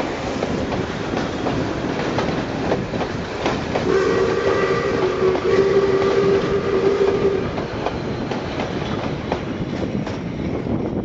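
Railway passenger carriages rolling past on the track, wheels clicking over the rail joints. About four seconds in, SAR steam locomotive 621's whistle sounds one long steady blast of about three and a half seconds. The rolling noise eases near the end as the last carriage passes.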